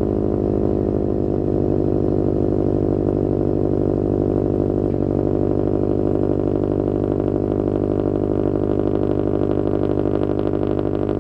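2015 Subaru WRX STI's turbocharged 2.5-litre flat-four idling steadily in the first seconds after a cold start, through a catless downpipe, Tomei unequal-length headers and an Invidia N1 dual exhaust.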